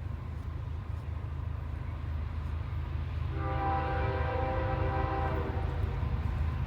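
Diesel locomotive's air horn sounding one blast of about two seconds, beginning about three seconds in, over the steady low rumble of the freight train's locomotive.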